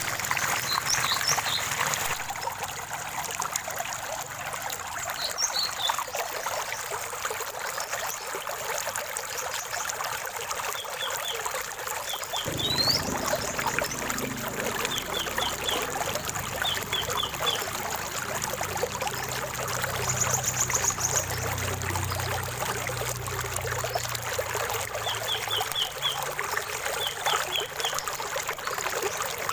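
Running water trickling and splashing steadily, with small birds chirping in short quick runs of three to five high notes and a brief high trill near the middle. About halfway through, a deeper rushing of water comes in beneath the trickle.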